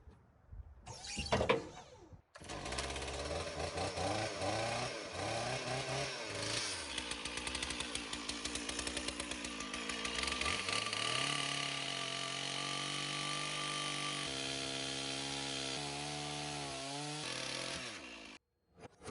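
Chainsaw running and cross-cutting a log, its engine pitch rising and falling. In the second half it drops lower and wavers under load, and it cuts off abruptly near the end.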